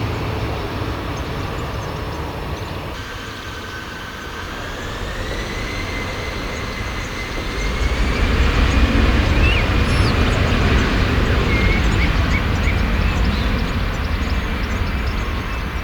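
Airbus A320's CFM56 jet engines spooling up for take-off: a whine climbs in pitch, then a low rumble swells and stays loud from about halfway through.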